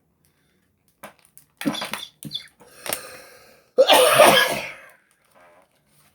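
A person coughing and clearing their throat in a few short bursts; the loudest, a cough lasting about a second, comes about four seconds in.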